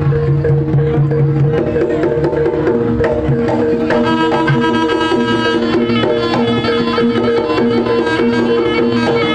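Jaranan ensemble music: kendang hand drums beating fast over steady held tones. About four seconds in, a slompret reed pipe comes in with a melody.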